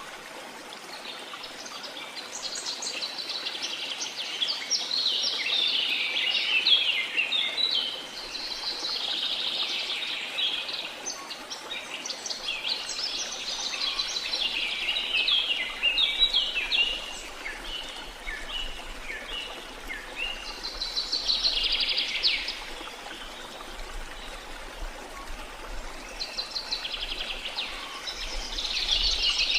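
Mixed rainforest birds chirping and trilling in busy clusters with short lulls, over a steady hiss of water.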